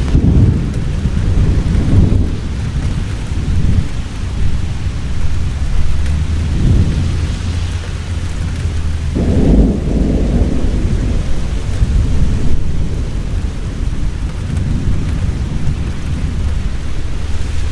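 Heavy rain falling steadily with thunder rumbling low underneath; a fresh roll of thunder breaks in suddenly about nine seconds in.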